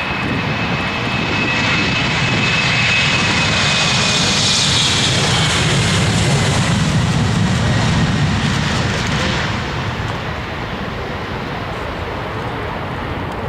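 Airliner's engines passing close by: loud rushing noise with a high whine that drops slightly in pitch as it goes by. The noise builds for the first few seconds and eases off after about nine seconds.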